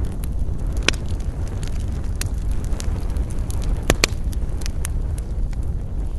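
Campfire burning: a steady low rumble of flames with scattered sharp crackles and pops from the burning wood. The loudest pops come about a second in and twice just after four seconds.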